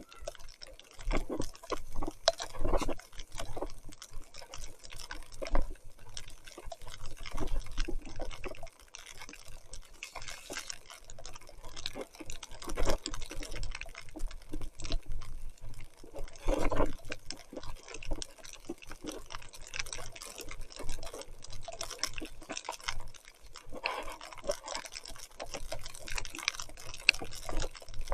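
Mountain bike riding through mud in heavy rain: irregular wet splashing, dripping and crackling from tyres, water and mud, rising and falling in uneven surges.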